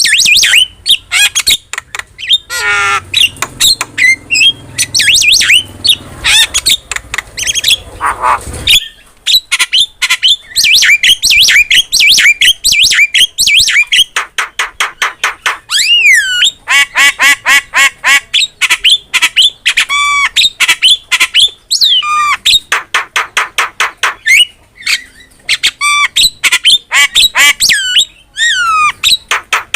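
Javan myna (jalak kebo) singing hard: a fast, varied string of squawks, whistled glides and rattling calls, with quick runs of repeated notes partway through.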